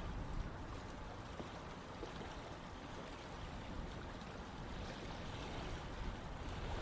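Running water flowing steadily, an even rushing sound without breaks.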